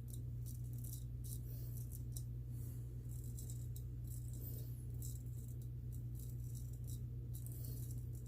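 Straight razor scraping through lathered whiskers in a series of short, irregular strokes, over a steady low hum.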